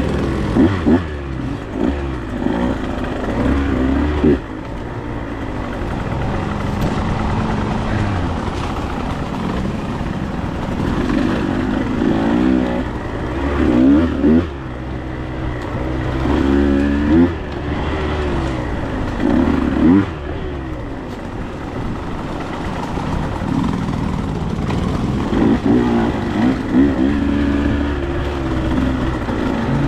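Dirt bike engine running under load, its pitch rising and falling every couple of seconds as the throttle is opened and closed.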